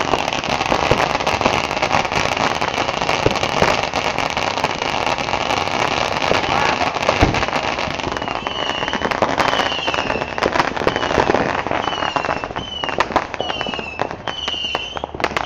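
Many fireworks going off at once: a dense, continuous crackling and popping with sharp bangs throughout. From about halfway, a run of short falling whistles repeats about once a second.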